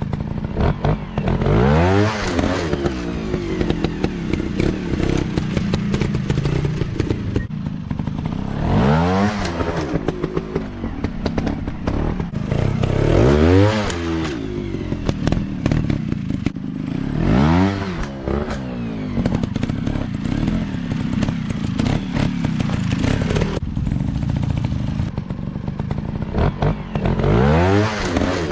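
Dirt bike engines running, revved up and back down about five times in sharp swells of pitch, with clattering and knocks in between.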